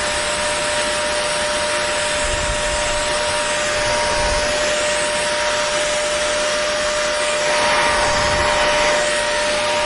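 Hair dryer running steadily: an even rush of blown air with a constant motor whine, swelling slightly louder for a second or so near the end.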